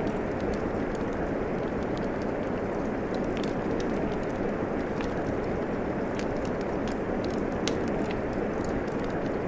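Fireplace fire crackling with sharp, irregular pops over a steady rain hiss.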